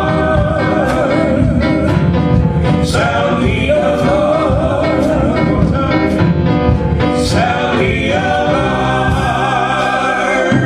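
Gospel song: singing with a wavering vibrato over instrumental accompaniment, with a steady beat about once a second.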